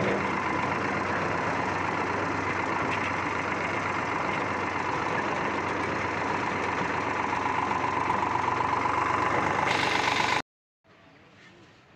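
Eicher tractor's diesel engine running steadily. The sound cuts off abruptly about ten seconds in, leaving only faint background noise.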